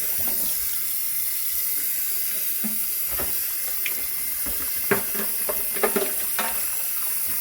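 Water from a hose spraying steadily onto the engine bay to rinse it down, with a few light knocks and taps along the way.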